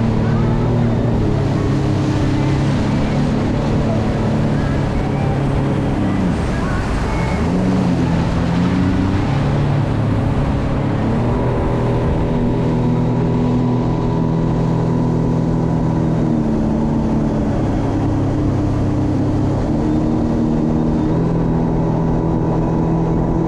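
Jet ski engine running steadily at cruising speed, with rushing water and wind noise. The engine eases off about six seconds in and picks back up a couple of seconds later.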